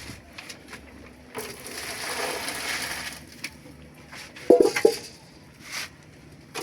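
Cooking noises: about two seconds of hissing, then a quick run of sharp clinks and knocks from a pot and utensils, the loudest sounds here.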